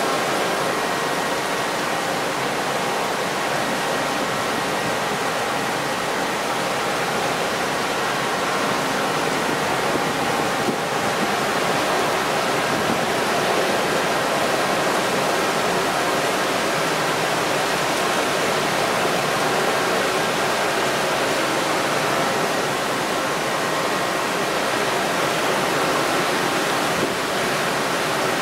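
Rainstorm pouring on a ship at sea: a steady, unbroken rushing hiss.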